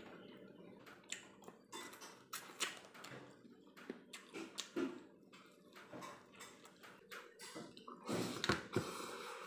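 Eating sounds of a person chewing and sucking on chicken curry and rice eaten by hand, with irregular wet mouth smacks and clicks. They get louder near the end as a handful of rice goes into the mouth.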